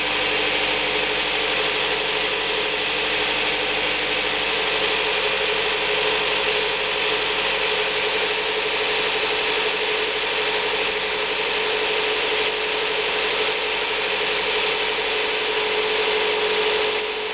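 Toyota Noah AZR60's four-cylinder engine idling steadily, with a constant whine over the running noise.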